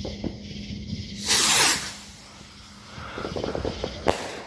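Firework going off: a loud hiss for about half a second, then faint crackling and one sharp pop near the end.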